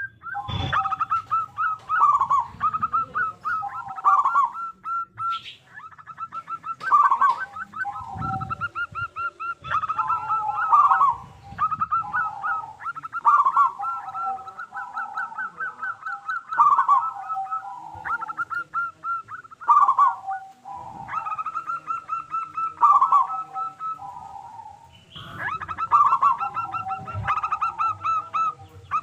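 Zebra dove (perkutut) cooing over and over: each phrase is a run of quick stuttered notes that drops to lower rolling coos, repeated every second or two.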